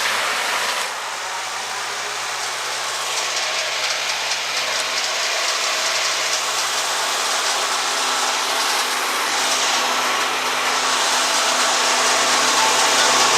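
Wood chipper's engine running steadily, with a brief loud noisy burst right at the start and the level slowly climbing.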